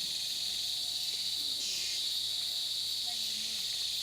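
Steady, high-pitched buzzing chorus of rainforest insects, swelling briefly about a second and a half in.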